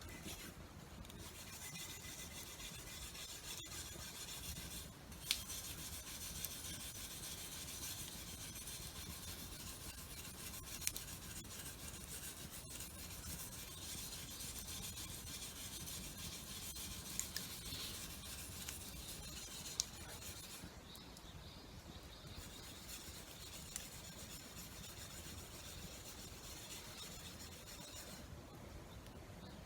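Steady rasping and rubbing of abrasive on metal, as in a tool being cleaned or sharpened, with a few sharp clicks. The hiss drops away briefly twice, about two-thirds of the way in and near the end.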